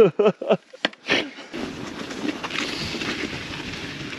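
A brief voice at the start, then from about one and a half seconds in a steady rolling rumble of a mountain bike riding over a dirt trail.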